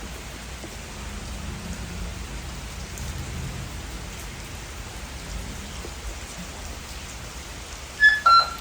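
Steady rain falling. Near the end, two short, loud electronic beeps.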